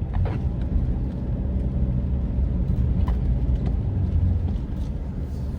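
Steady low rumble of a car being driven, heard from inside the cabin: engine and tyre noise on the road, with a few faint ticks about three seconds apart.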